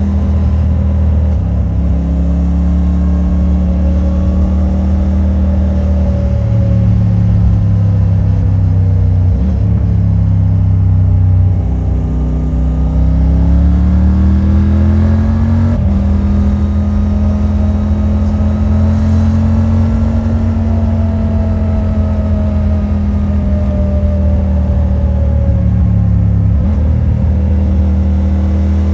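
Triumph Tiger 900 Rally Pro's three-cylinder engine running through the stock exhaust while riding, its pitch rising and falling with the throttle. About twelve seconds in, the engine note climbs steadily for a few seconds, then drops suddenly at a gear change.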